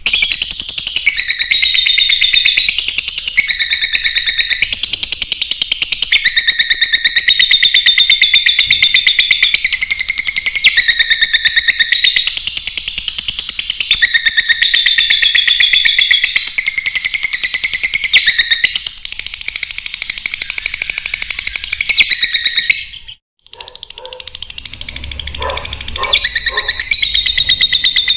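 African lovebirds chattering and chirping in a rapid, continuous high-pitched stream, broken by one brief pause near the end.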